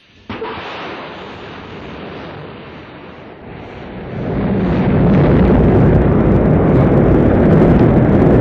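Rocket engines at launch: a sudden blast of noise about a quarter second in, then a continuous rumble that grows much louder and deeper about four seconds in and holds steady.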